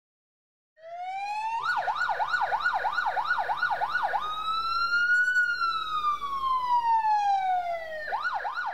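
Electronic emergency-vehicle siren. About a second in it starts with a rising tone, then switches to a fast yelp of about three to four warbles a second. It then goes into a slow wail that rises and falls, and returns to the yelp near the end.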